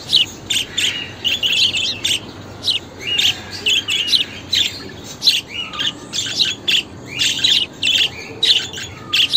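Budgerigars chattering and chirping: a quick, continuous string of short warbled chirps and squeaky notes.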